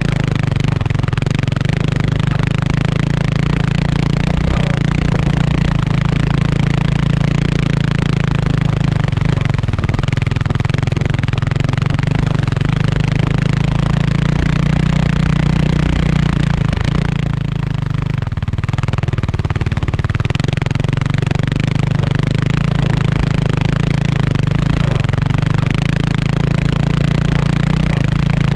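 Kawasaki KLX300R's single-cylinder four-stroke engine running at a steady, held throttle while riding, with the noise of the ride around it. It eases off briefly about two-thirds of the way through, then picks up again.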